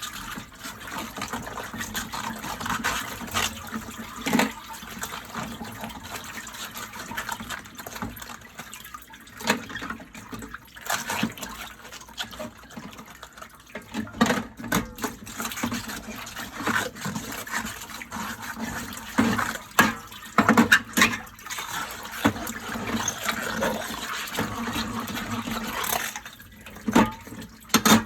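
Dishes being washed by hand at a kitchen sink: tap water running and splashing, with irregular clinks and knocks of dishes being handled.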